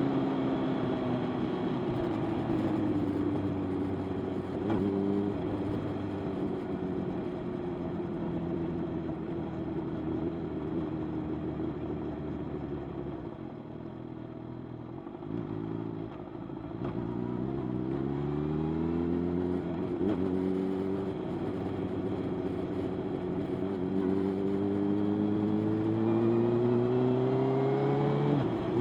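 Motorcycle engine on the ride, its pitch falling slowly as the bike eases off for the first half and going quiet about halfway through. It then accelerates in rising sweeps, with a drop at a gear change about two-thirds of the way in and another at the very end.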